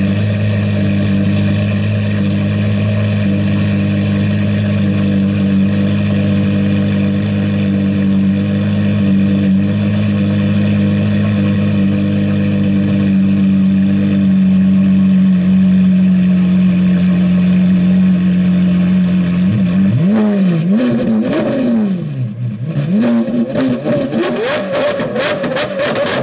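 Lamborghini Aventador's V12 engine idling with a steady low note, then revved up and down several times about twenty seconds in, after which it holds at a higher speed with a rapid, pulsing exhaust note.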